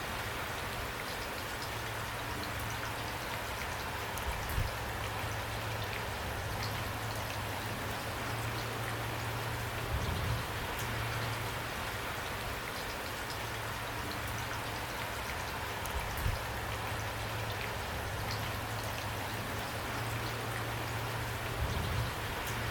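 Steady rain falling on a surface, with a few soft, low knocks of heavier drops every several seconds.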